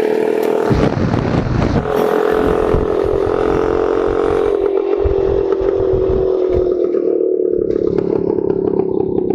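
Motorcycle engine running at steady revs, its pitch easing slightly lower, with rough rattling noise underneath.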